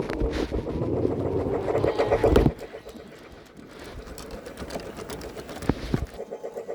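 Model train running on its track: a small electric motor and wheel clatter in an even rhythm, loud for about two and a half seconds, then fainter, with a couple of sharp clicks near the end.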